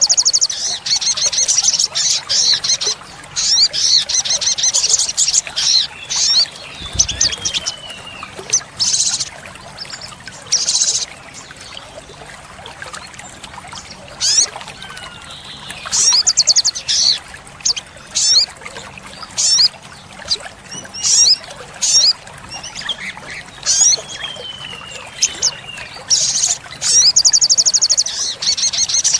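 Olive-backed sunbird singing: bursts of very high, rapid trills and chattering phrases, with a few falling whistles, the loudest bursts near the start and near the end. A brief low thump about seven seconds in.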